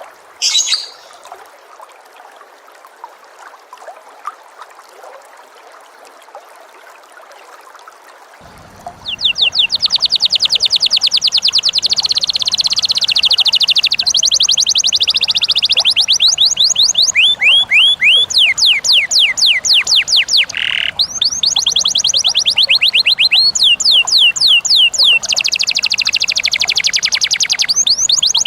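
A caged pet bird singing a long, loud, rapid trill of sharp repeated chirps, starting about nine seconds in after a few short calls, with brief breaks and changes of pace.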